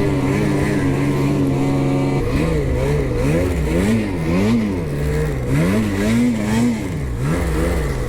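Ski-Doo 850 two-stroke snowmobile engine running at a steady pitch, then from about two seconds in the throttle is worked on and off, so the engine note rises and falls quickly several times.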